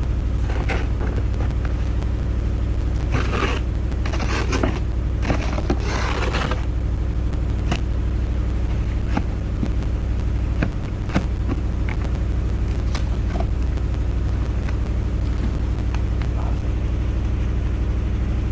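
A truck engine idling steadily, with scraping and metallic clanks and knocks as a spare tyre is worked loose from under the truck, the scraping heaviest a few seconds in.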